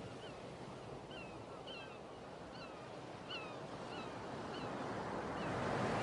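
A small bird calling repeatedly in short, hooked chirps, about two a second, over a steady rushing of wind in the pine trees that slowly grows louder.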